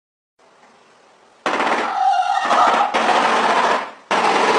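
Shoebill clattering its bill, a loud, rapid machine-gun-like rattle that comes in long bouts, starting about a second and a half in.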